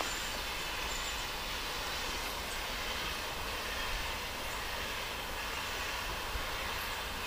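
S&DJR 7F 2-8-0 steam locomotive No. 53808 giving off a steady hiss of steam, with a low rumble beneath and no exhaust beats.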